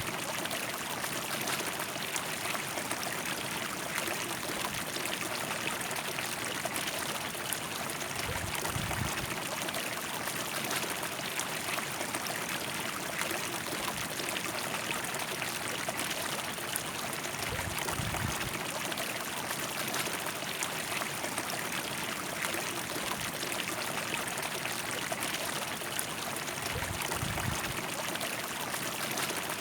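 River water flowing: a steady, even rush of water, with a few brief low bumps about 9, 18 and 27 seconds in.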